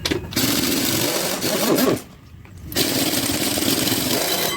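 Impact wrench hammering in two runs, breaking loose and spinning out the crank pulley bolts on a small block Chevy 350, with a brief pause about two seconds in.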